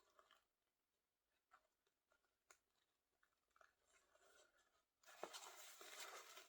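Near silence with a few faint small clicks and rustles, from a Barbie doll being handled as tiny plastic shoes are pushed onto its feet. A faint steady hiss comes in about five seconds in.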